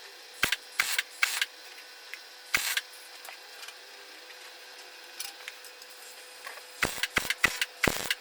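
MIG welder tacking steel exhaust pipe: a series of short crackling bursts, three close together near the start, one more a moment later, then a quicker run of four near the end.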